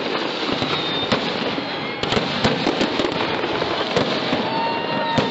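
Fireworks display: a dense crackle of many small bursts with sharp bangs throughout, and a steady whistling tone near the end.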